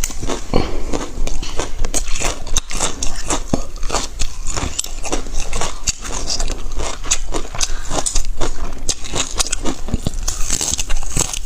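Close-miked eating: a person biting and chewing, a dense irregular run of sharp mouth clicks, several a second.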